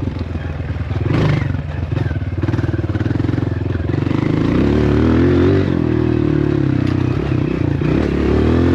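Dirt bike engine running under way, its revs climbing about halfway through, easing off, then climbing again near the end, with some rattling and scraping from the ride.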